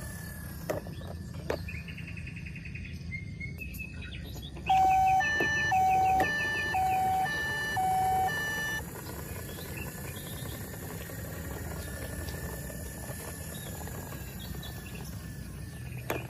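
Battery toy vehicle's electronic two-tone siren, alternating between a low and a high pitch about four times over some four seconds before cutting off, over a steady low hum.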